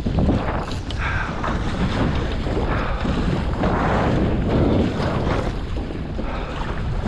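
Wind buffeting the microphone and water rushing past the hull of an RS Aero sailing dinghy under way, swelling and easing in gusts.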